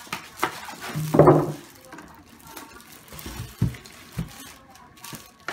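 Light clicks and knocks of plastic coffee-maker parts being handled, with a short murmur of a man's voice about a second in.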